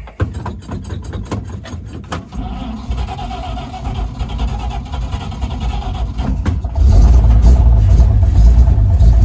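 A 1953 Chevy 3600 truck's straight-six engine being cranked over by the starter, with rapid even clicks. It catches into a rough, uneven run, then about two-thirds in picks up into a much louder, steady running. It is running on fuel added by hand, since the owner suspects it is not getting fuel from its pump.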